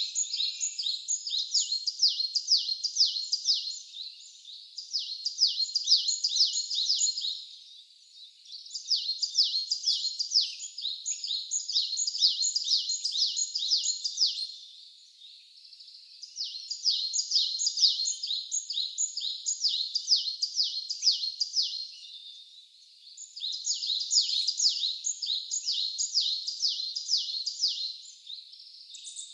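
A bird singing a fast series of high, sweeping notes, about four a second, repeated in long runs of several seconds with short breaks between.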